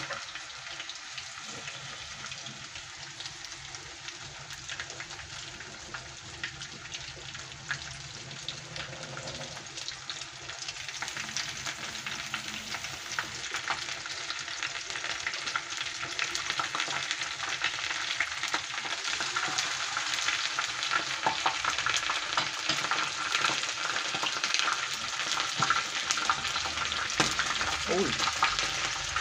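Batter-coated straw mushrooms frying in hot oil in a wok: a steady crackling sizzle full of fine pops, growing louder toward the end as more pieces are in the oil.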